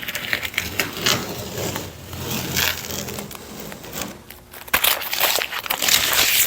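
Rustling and crinkling of handled material, with scattered sharp clicks and knocks.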